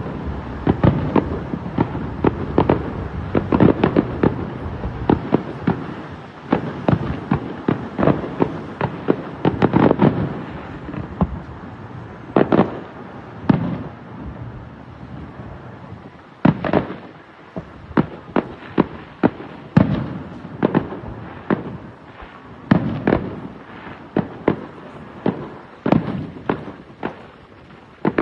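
Fireworks display going off: a dense run of overlapping bangs and crackles for about the first ten seconds, then single, separate bangs roughly a second apart.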